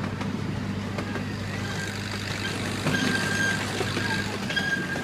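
Miniature amusement-park train running with a steady low hum and rattle. From about three seconds in, a high steady squeal joins it, typical of the wheels grinding round the tight turnaround loop.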